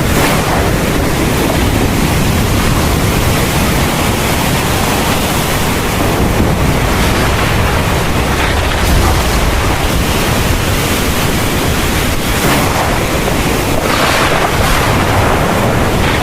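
Heavy thunderstorm rain pouring steadily, with a deep low rumble underneath and a brief swell in the rain's hiss near the end.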